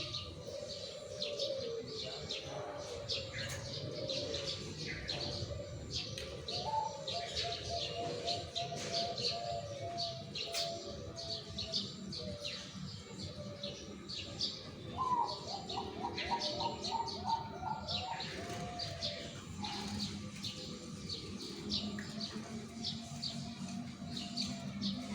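Zebra doves (perkutut) cooing in repeated low, rolling phrases, with a fast run of stepped notes about fifteen seconds in. Many small birds chirp high and continuously behind the cooing.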